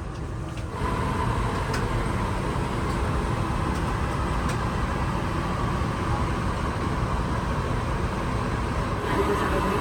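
Steady rumble of jet engine and airflow noise inside an Airbus A380's cabin, stepping up slightly about a second in.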